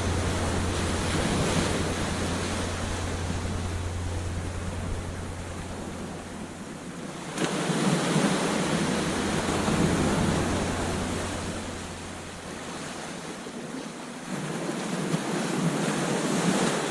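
Ocean surf breaking on a sandy beach, the wash of the waves swelling twice, about halfway through and again near the end. A low rumble sits under the first half and fades away.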